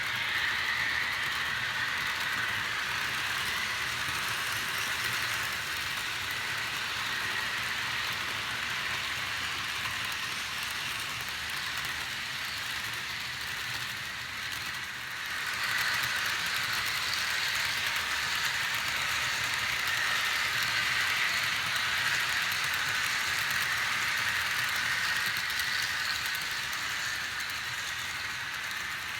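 HO scale model diesel locomotives and cars running along the layout's track: a steady rattling hiss of wheels and motors. It drops briefly about halfway through, then comes back a little louder.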